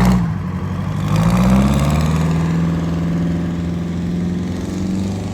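A tractor engine running close by, its pitch rising at the start and again about a second in, then holding steady.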